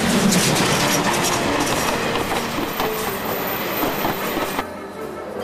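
A train passing close by, its wheels clattering over the rail joints with sharp clicks in a dense rush of noise, until the sound cuts off abruptly about four and a half seconds in.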